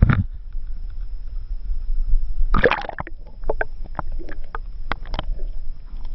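Water splashing and sloshing around a small boat, with a sharp knock at the start, a noisy splash-like burst about two and a half seconds in, then a run of short knocks and clatters. A constant low wind rumble on the microphone runs underneath.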